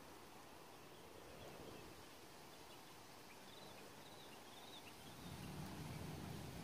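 Very quiet outdoor ambience: faint hiss with a short run of high bird chirps about halfway through, and a low rumble rising near the end.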